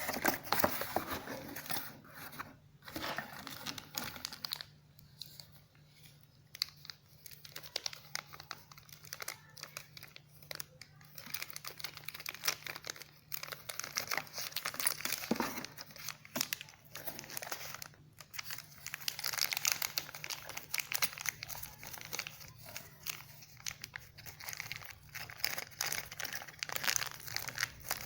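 Packaging being handled during an unboxing: crinkling and rustling in irregular bursts, with scattered clicks and some tearing.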